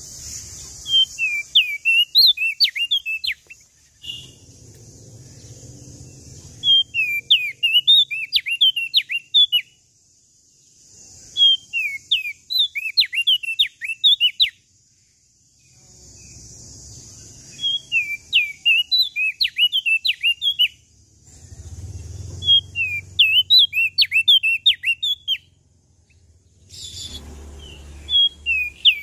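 A small songbird, the prenjak daun Lombok, sings repeated phrases of rapid, sharp, downward-slurred whistled notes. The phrases come in six bursts of two to three seconds each, with short pauses between them, over a background hiss.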